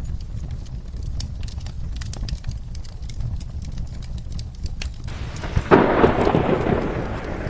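Crackling fireplace over a steady low rumble of rain. About five seconds in, a loud rumbling thunderclap breaks in suddenly and rolls on.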